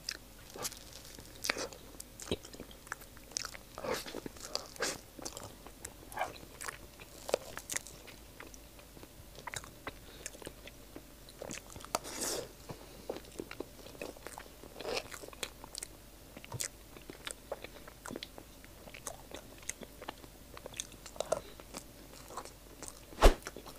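A person chewing soft grapefruit mille crêpe cake close to a clip-on microphone: many small, irregular mouth clicks and smacks.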